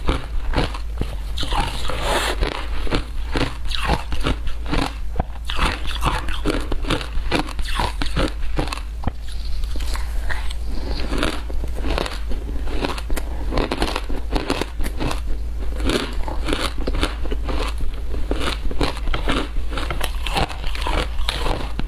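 Frozen matcha ice being bitten and crunched close to the microphone: a dense, continuous run of sharp cracks and chewing crunches.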